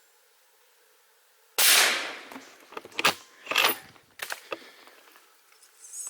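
.308 rifle firing a single subsonic shot about one and a half seconds in, a sharp report that fades over half a second. Several sharp metallic clicks and knocks follow, with a light high-pitched rattle near the end.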